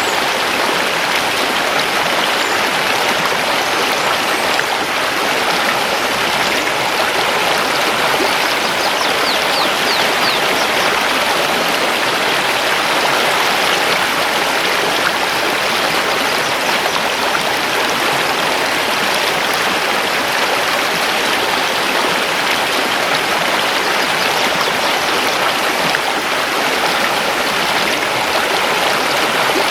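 Mountain river rushing steadily over stones.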